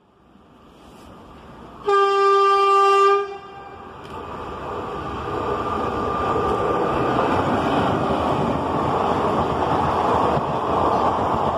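WAP-4 electric locomotive sounding one long, steady horn blast about two seconds in. Then the running noise of the express train builds as it approaches and carries on steadily as the coaches pass at speed.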